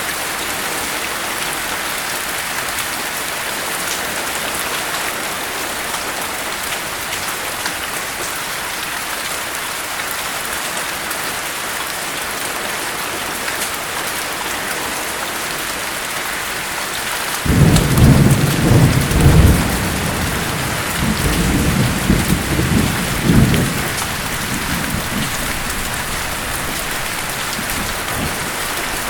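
Steady heavy rainfall hissing throughout. About two-thirds of the way in, a thunderclap breaks in suddenly and rolls on as low rumbling for about six seconds before fading back under the rain.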